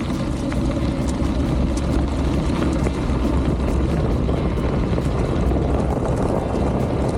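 Steady wind rumble buffeting the microphone of a bicycle speeding downhill, with the bike's tyres rolling over the trail.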